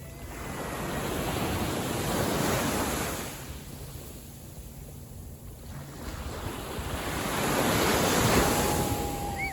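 Small waves on a calm sea washing onto the beach, the surf swelling and fading twice about five seconds apart, with some wind on the microphone. A thin steady whistle-like tone comes in near the end.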